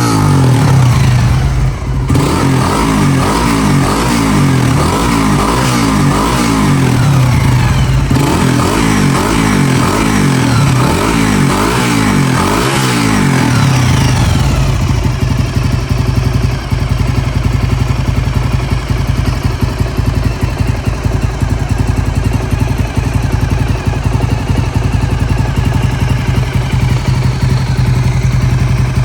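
Honda GB250 Clubman's single-cylinder four-stroke engine being revved up and down repeatedly by hand, then settling about halfway through into a steady, even idle.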